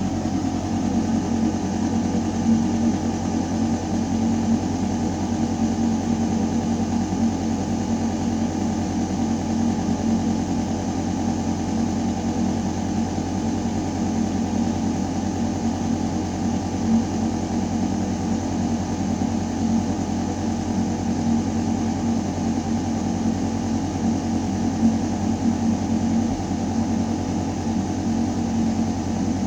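Building ventilation system running in a duct shaft: a steady, deep mechanical hum of air moving through metal ductwork, with a fainter airy hiss above it and no change in level.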